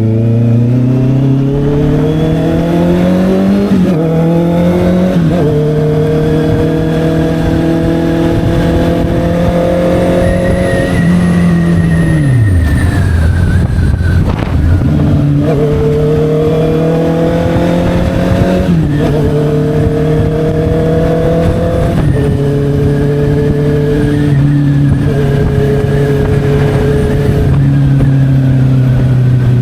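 Honda CB650R's inline-four running through an SC Project aftermarket exhaust while being ridden: revs climb with quick drops at the first two upshifts, hold steady at a cruise, and fall away as the bike slows about twelve seconds in. It then pulls again, with the pitch stepping down at each of several more upshifts.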